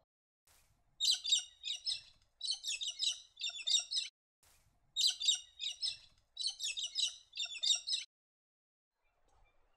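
Galahs calling: rasping screech notes in quick runs of three or four, repeated over several seconds and falling silent near the end.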